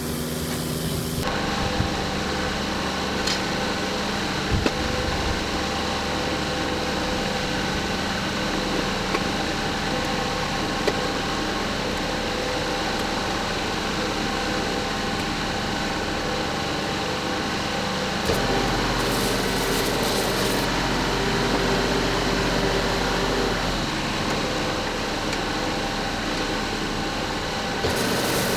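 An engine running steadily with a few short sharp knocks; its tone changes abruptly a couple of times.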